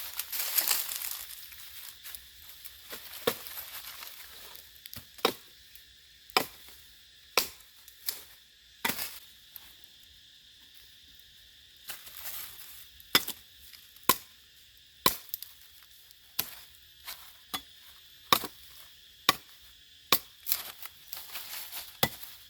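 Knife chopping on a wooden cutting board, single sharp strokes coming irregularly about once a second, with some rustling handling in between.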